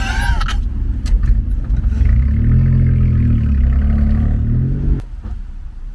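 Daihatsu Hijet kei truck's three-cylinder engine, breathing through a custom intake and a motorcycle-muffler exhaust, pulls steadily under light throttle with a loud, even drone. Near the end the sound drops off suddenly, as the throttle closes.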